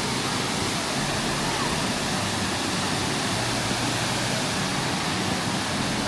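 Dingmans Falls waterfall: a steady, even rush of falling water.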